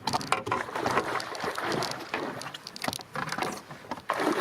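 Water splashing in irregular bursts as a hooked northern pike thrashes at the surface while being landed.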